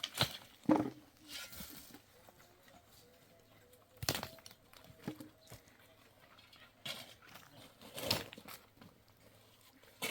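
A few separate knocks and thuds at irregular gaps, several in the first second and then one every second or two, with little else between them.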